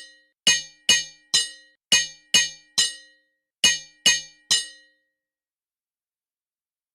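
Hammer striking an anvil, nine ringing metallic clangs in quick, uneven groups, stopping about five seconds in.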